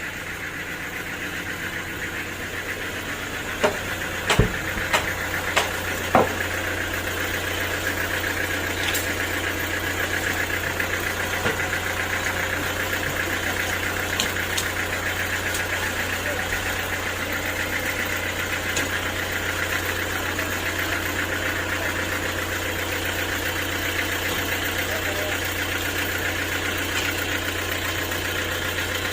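Sawmill machinery running steadily with a low hum and a constant mechanical noise. A handful of sharp knocks come about four to six seconds in.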